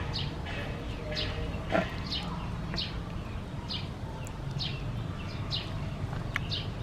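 A small bird chirping over and over, short high downward chirps a little under a second apart. A single sharp knock sounds about two seconds in, over a steady low rumble.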